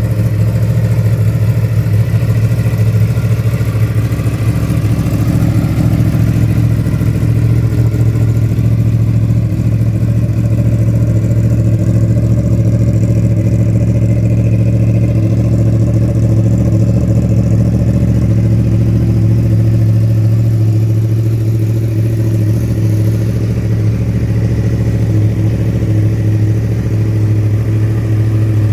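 Yamaha R1 inline-four engine idling steadily, holding an even low pitch with no revving.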